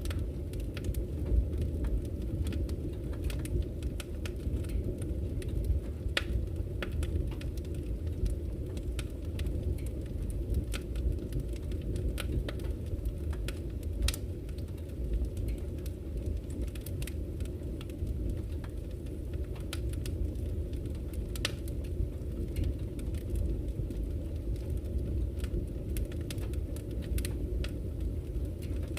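Campfire crackling, with irregular sharp pops and snaps, over a steady low rush of flowing river water.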